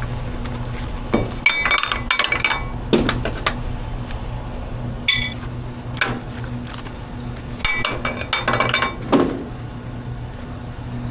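Irregular metallic clinks and clanks, a dozen or so separate knocks, some in quick clusters, over a steady low engine hum.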